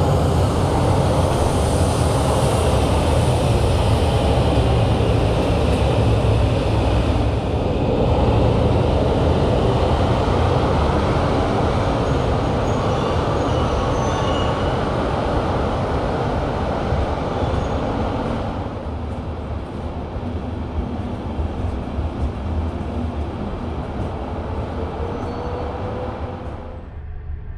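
A train running slowly out of a station, heard from inside a sleeping car: a steady noise of wheels on rail and car movement. It eases off a little past the middle.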